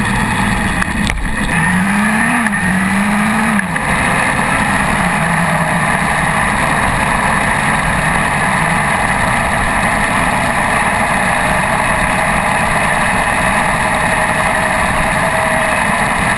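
Motorcycle riding, heard from a camera on its front fork: loud, steady wind and road noise with the engine underneath. The engine's pitch rises and falls a couple of times about two to four seconds in as it revs.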